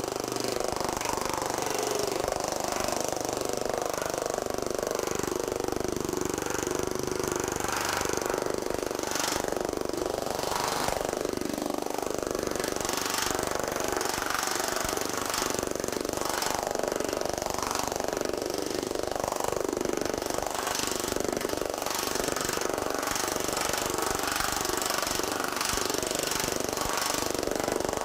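TM Technologies pneumatic power hammer with a shrinking die hammering a 20-gauge hot-rolled steel panel without pause: a fast, steady clatter of blows. The metal's ring rises and falls in pitch as the piece is moved under the die and shrunk flat.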